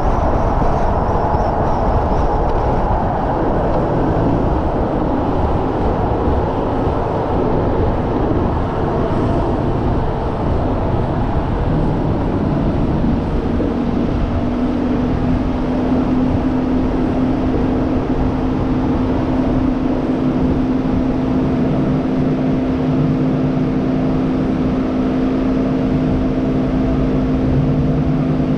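Hyundai Elantra N's 2.0-litre turbocharged four-cylinder engine running, with road and wind noise. About halfway through, the engine settles into a steady, unchanging note.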